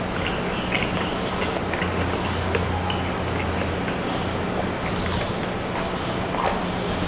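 Close-up chewing and crunching of deep-fried street snacks, with irregular small crisp clicks, over a steady low hum.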